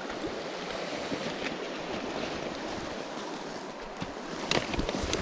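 River water running over stones, a steady rushing. A few small clicks near the end.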